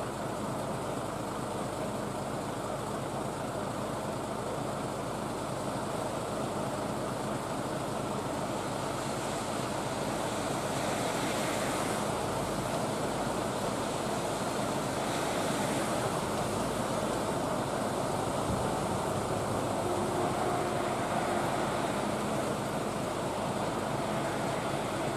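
Steady hiss of heavy rain falling on wet pavement and vehicles, with the low hum of idling truck engines underneath.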